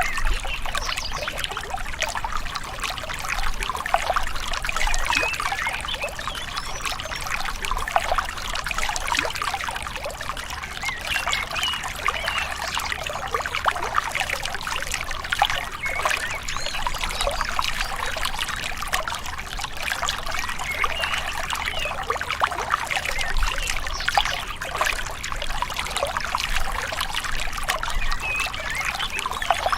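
Small river running and gurgling, a steady trickling babble of water.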